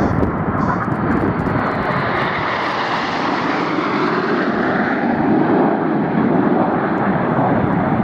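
Red Arrows BAE Hawk T1 jets flying past, a continuous jet roar that grows brightest about three seconds in and then dulls as the aircraft pass.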